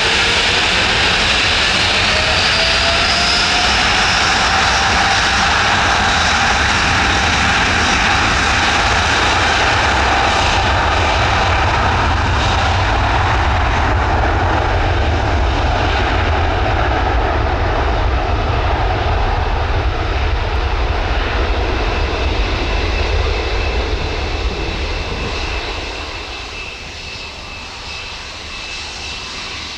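Airbus A330-900's twin Rolls-Royce Trent 7000 turbofans at take-off power. A whine rises in pitch over the first few seconds, the engine noise stays loud and steady, then fades over the last few seconds as the jet moves away.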